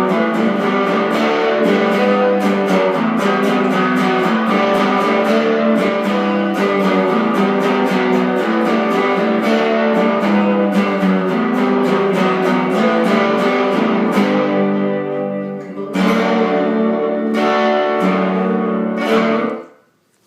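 Guitar strumming the song's instrumental ending in a steady rhythm. It thins out about fourteen seconds in, comes back for a few last chords, and stops just before the end.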